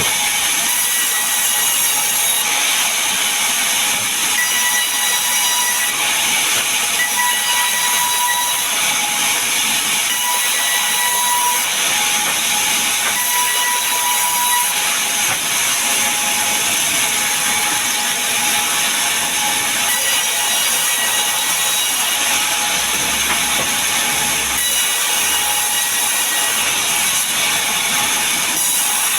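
Power saw cutting mahogany and pine timber: a loud, steady hissing cut with faint whining tones that come and go.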